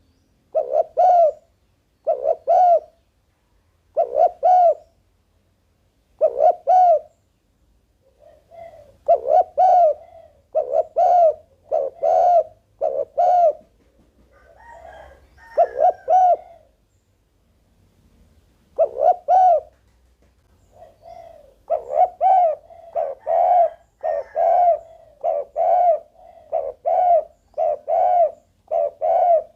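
Spotted dove cooing: short, soft coos repeated in groups with pauses between, then a faster, steady run of coos over roughly the last third.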